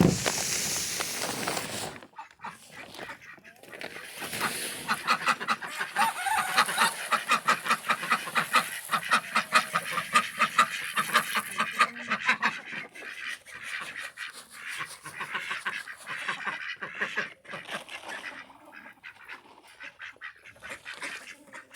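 Domestic ducks quacking: a short burst of noise at the start, then a long, rapid run of calls through the middle that thins to scattered quacks near the end.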